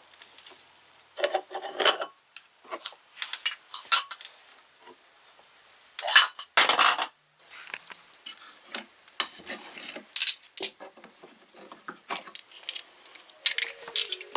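Clinking and clattering of small hard objects being handled and set down, in irregular bursts with quiet gaps. Music begins near the end.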